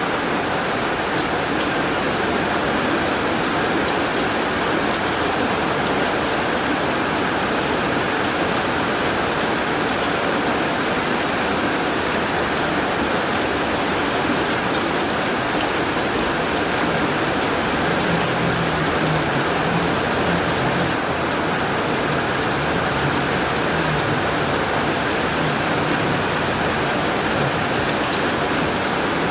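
Steady heavy rain falling on a tin roof, with scattered sharper drop ticks.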